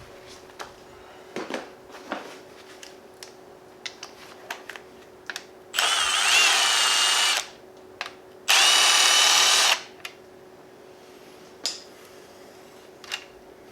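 A power tool's motor whirring in two bursts of a second or so each, spinning out the connecting rod cap bolts on an engine, with small metal clicks and knocks of the work in between.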